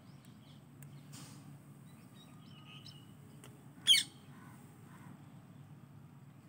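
A small bird chirping: a few faint high chirps, then one short, sharp, loud call about four seconds in, over a low steady background hum.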